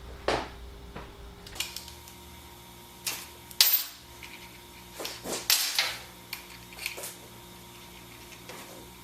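Irregular sharp clicks and knocks, spaced a second or more apart, with the loudest about three and a half seconds in and a cluster near the middle, over a faint steady hum.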